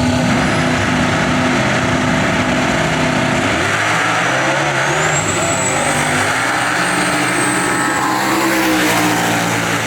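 Drag-racing car engines running hard at the strip, loud and steady, their pitch stepping as they run, with a faint high whine rising about five seconds in.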